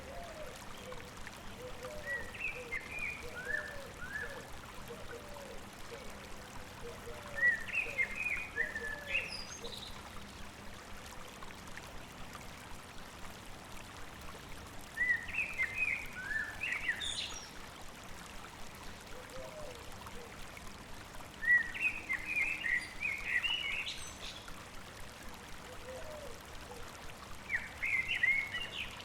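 A songbird sings a short, quick phrase about every six seconds, five times in all, over the steady babbling of a stream. Softer, lower chirps repeat quickly through the first third.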